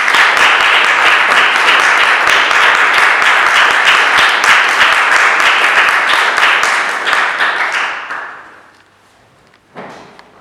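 Audience applauding with dense clapping that dies away after about eight seconds, then one short quieter noise near the end.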